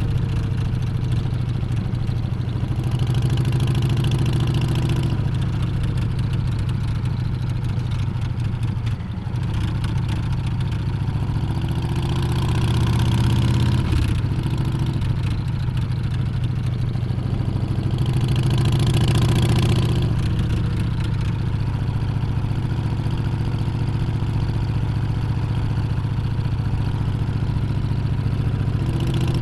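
Harley-Davidson Street Bob 114's V-twin engine running on the move, its pitch rising and falling with the throttle. It swells louder a few times and drops away briefly near 9 and 14 seconds in, as when the throttle is rolled off or a gear is changed.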